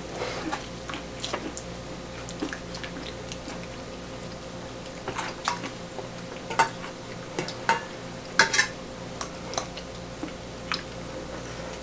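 Utensils and dishes clinking and tapping in a kitchen: scattered light clicks, busiest in the second half, with the loudest clatter about eight and a half seconds in.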